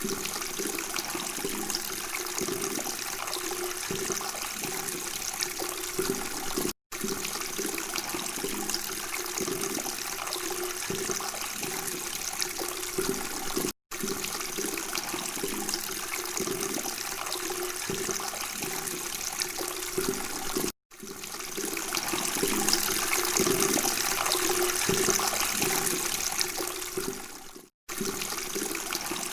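Flowing water babbling and trickling steadily, in stretches of about seven seconds that are each cut off by a brief moment of silence. One stretch near the end is louder, swelling in and fading away before the next cut.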